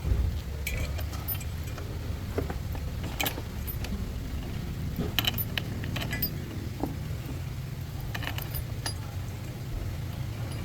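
Scattered light metallic clinks and taps, a few seconds apart, over a steady low rumble: tools and metal parts being handled during truck differential repair work.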